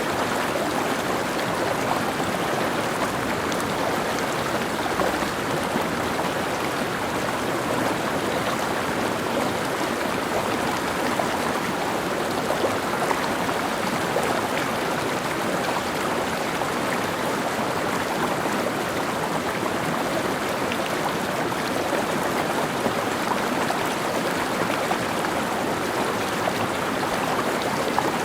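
Mountain stream flowing over rocks: a steady rush of running water, even throughout.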